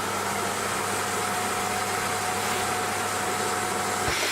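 Vacuum cleaner motor running steadily with a loud rushing of air over a low hum. Near the end the hum drops away while the rushing carries on.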